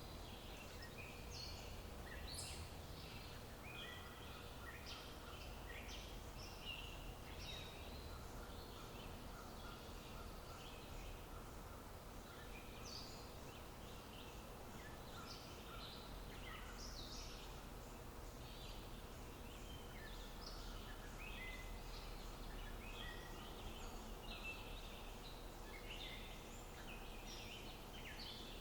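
Faint small birds calling: many short, high chirps scattered throughout, over a low steady background rumble.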